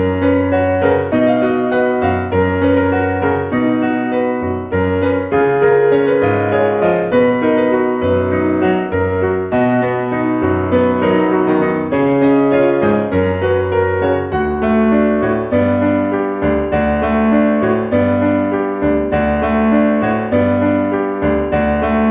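Piano music: a steady stream of notes over a bass line.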